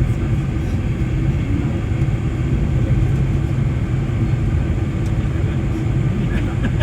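Steady low rumble of a Boeing 747-400 airliner, its engines and airframe noise holding level with no change in pitch.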